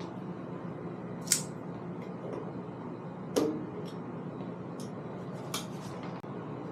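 A few separate sharp clicks and clinks, like tools or parts being handled on a workbench, over a faint steady hum.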